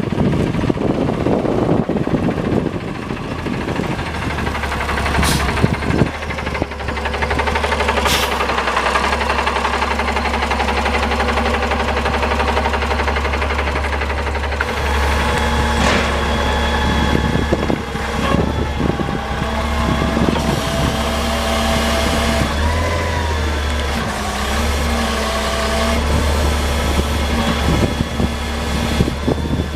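The Freightliner M2 112 packer truck's 8.9-litre CNG inline-six starts about four seconds in and then idles with a steady low drone. A few sharp clicks sound over it, and a wavering whine joins in the second half.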